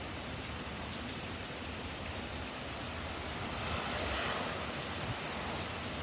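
Steady rain falling on a wet driveway and yard, with the odd close drip. About three and a half seconds in, the hiss swells for a second or so as a car's tyres pass on the wet street.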